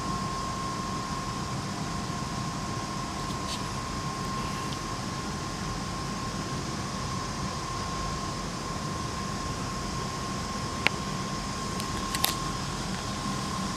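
Steady background noise of a large hangar: an even hiss with a low hum and a thin high whine, like running fans, with two faint clicks near the end.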